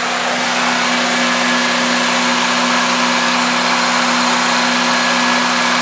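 1994 Toyota Celica's engine idling steadily, a constant even drone. The owner says the engine is pinging and doesn't know why.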